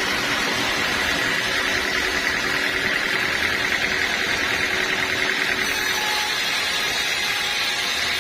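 Band sawmill running steadily: dense, even machine noise with a steady high whine.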